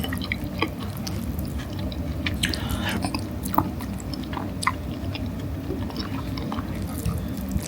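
A person chewing a mouthful of natto, fermented soybeans, with small wet clicks from the mouth.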